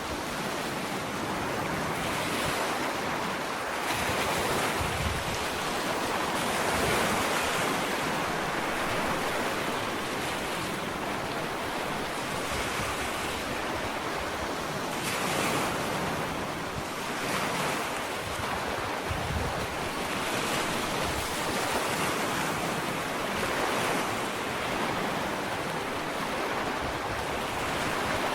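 Ocean waves lapping on a sandy beach, a steady wash of surf that swells and eases every few seconds.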